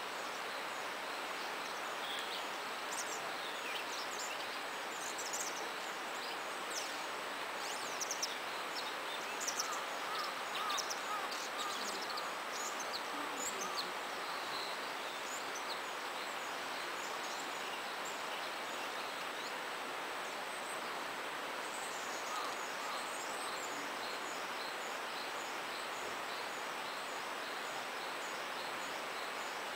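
Steady babbling of a small stream, with thin, high-pitched calls of willow tits scattered through the first half.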